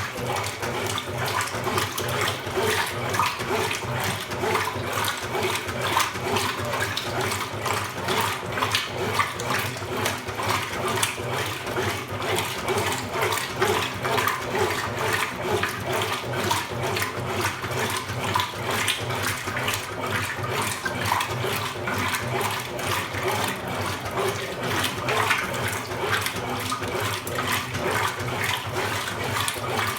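Consul Supercargo 8 kg washing machine with water rushing and splashing inside it, steadily, mid-cycle.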